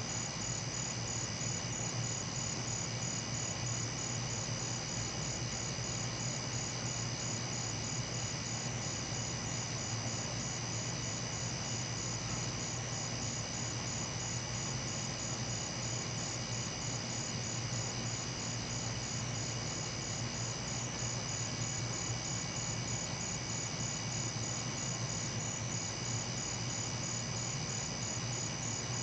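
Night insect chorus: crickets trilling steadily in rapid, even pulses, over a low steady hum.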